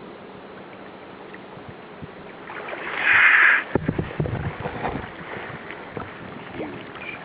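Water sounds at a kayak: a loud one-second rush of splashing water about two and a half seconds in, then irregular sloshing and knocks of water against the hull.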